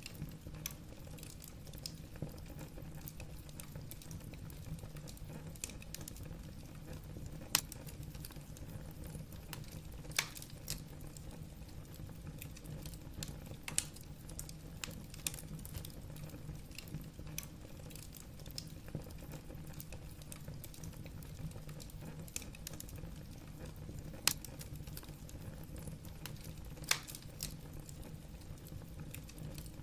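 Wood burning in a fireplace, the logs crackling: irregular small snaps and ticks, with a sharper pop every few seconds, over a steady low hum.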